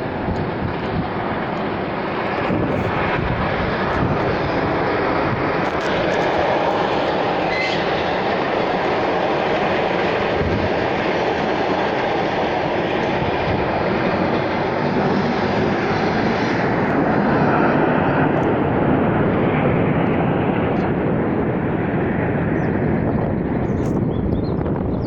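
Military aircraft flying over, a steady engine noise that grows louder over the first few seconds and stays loud.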